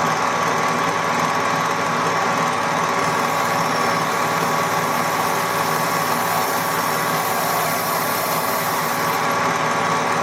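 Workshop machine tool running steadily with a constant whine while drilling a hole in metal that is then to be tapped. A thin high hiss joins from about three seconds in until about nine seconds.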